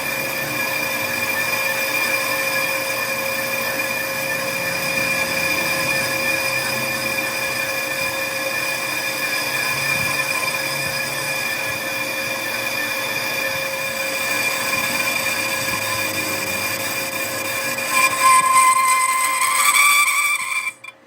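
A machine runs steadily with a high, even whine. Near the end it grows louder with a slightly rising tone, then stops abruptly.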